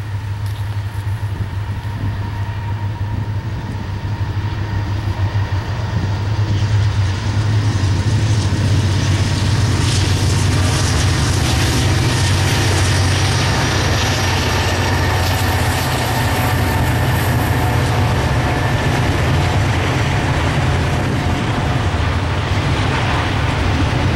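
Norfolk Southern GE Dash 9 diesel locomotive running with a steady low hum as it approaches and passes, growing louder about six seconds in. It is followed by the steady wheel-on-rail noise of double-stack container cars rolling by.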